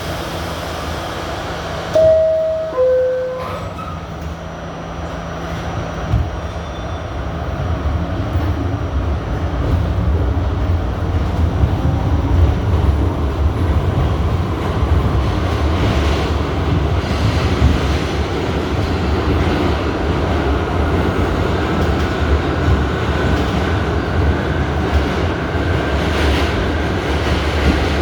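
Inside a New York City Subway R68A car: a two-note falling chime sounds about two seconds in, the door-closing signal. The train then pulls out, and its rumble of wheels on rails builds from about six seconds in and stays loud and steady.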